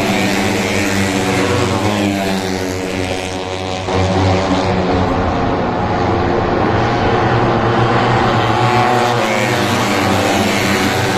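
Moto3 race bikes' 250cc single-cylinder four-stroke engines screaming at high revs on track, the pitch rising and falling as they accelerate and shift gears. The sound gets louder about four seconds in.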